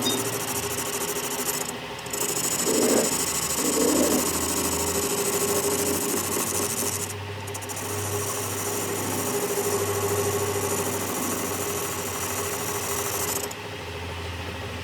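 Metalworking machinery running on metal: a steady hum under a dense, rasping hiss. The hiss breaks off briefly twice and drops away near the end.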